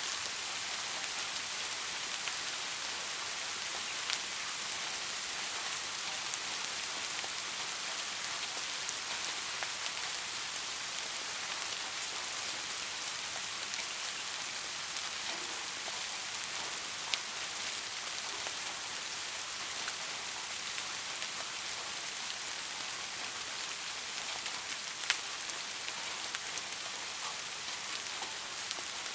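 Steady rain falling on a surface, an even hiss with individual drops ticking sharply now and then, two of them clearer near the middle and toward the end.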